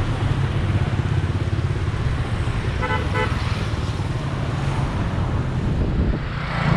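Street traffic rumbling steadily, with a vehicle horn giving a short toot about three seconds in.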